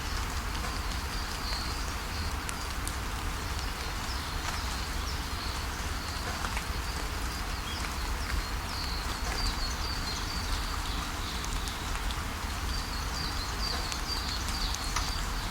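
Steady rain falling, with small drop clicks, while birds chirp in short high calls again and again. A steady low rumble sits under it.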